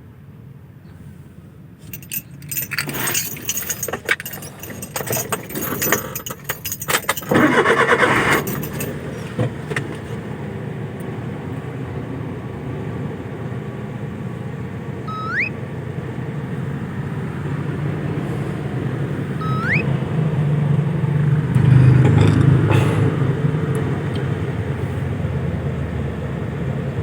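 Keys jangling and clattering handling noises for several seconds, then a vehicle engine running steadily and growing louder toward the end. Two short rising chirps sound a few seconds apart midway.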